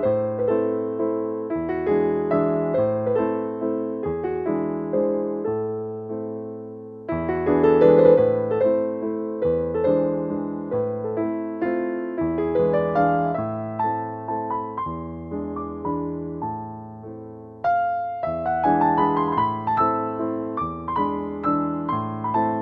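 Background piano music, gentle notes struck in a steady pulse, each dying away; it fades down and comes back in with a louder chord about 7 seconds in and again near 18 seconds.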